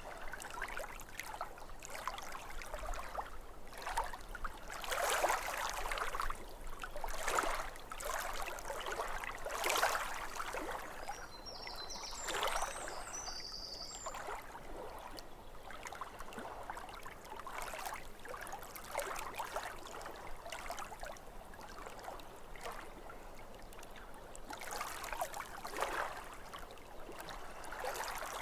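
Small waves lapping at a lake shore, a steady wash broken by irregular louder splashes. A bird chirps briefly about halfway through.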